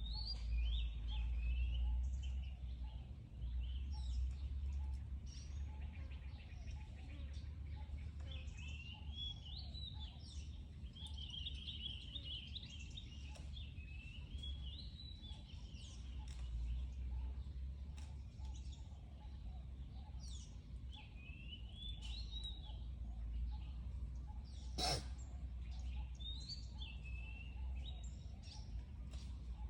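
Birds chirping: many short, high, quick chirps, busiest through the middle, over a steady low rumble. A single sharp knock sounds near the end.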